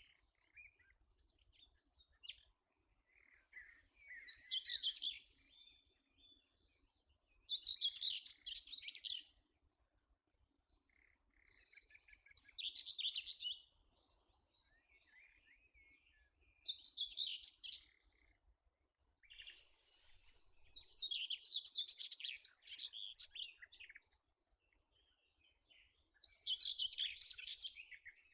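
A songbird singing short, bright, warbling phrases, one every four to five seconds, with faint chirps in between.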